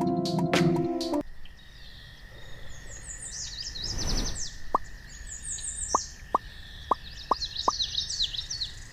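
Music cuts off about a second in, followed by birds chirping in two short spells over a faint steady whistle-like tone, with about six short plops, like water drops, in the second half.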